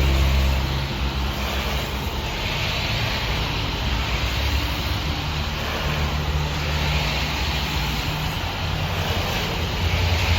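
A motor vehicle's engine running, with steady road noise.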